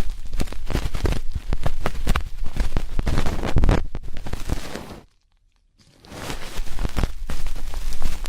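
Close-up crackly scratching and rustling of an ear pick working against an ear microphone, full of small clicks; it stops for a moment about five seconds in, then resumes.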